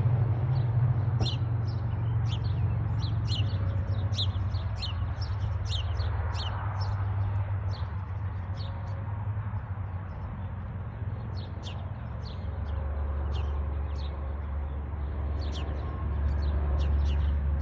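Small birds chirping, short high-pitched notes in quick runs, over a steady low rumble.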